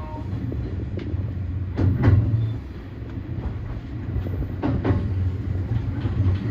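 E235-1000 series electric multiple unit running on the rails, heard from inside the leading car: a steady low rumble with a few sharp clicks of wheels crossing rail joints or points.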